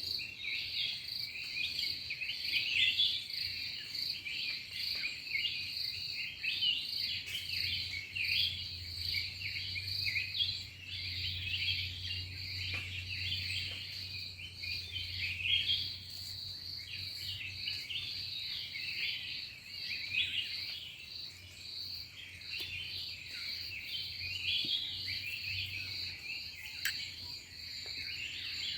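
Many small birds chirping and chattering without pause over a steady, high, slightly pulsing insect drone.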